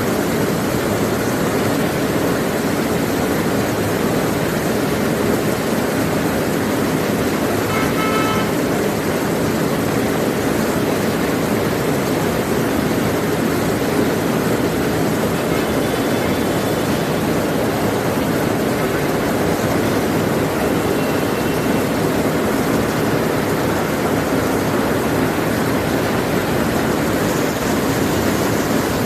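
Steady street traffic noise on a flooded street, with a short vehicle horn toot about eight seconds in and fainter toots later.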